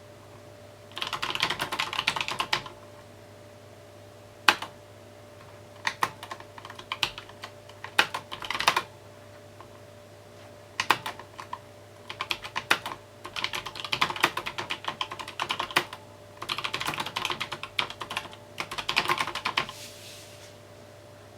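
Mechanical keyboard typing in quick bursts of keystrokes separated by short pauses, with a single louder keystroke about four and a half seconds in. A faint steady hum sits underneath.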